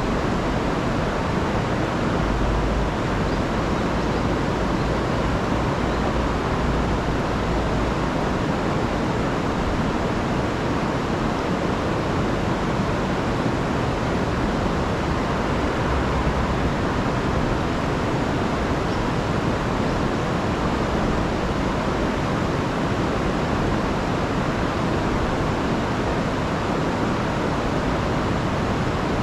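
River in spate after a week of heavy rain, rushing and tumbling over falls in a steady, even roar of water.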